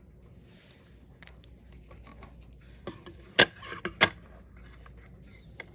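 Small sharp clicks and metallic taps from watch parts and tools being handled during work on a Seiko 5 7S36 automatic watch, the two loudest about three and a half and four seconds in.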